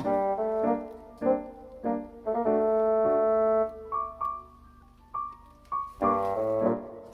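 Background piano music: struck notes and chords, with a long held chord near the middle and a few sparse higher notes after it.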